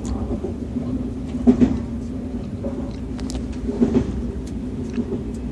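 Moving passenger train heard from inside the carriage: a steady rumble and hum of the train running, with a few brief louder knocks, the loudest about a second and a half in and near four seconds in.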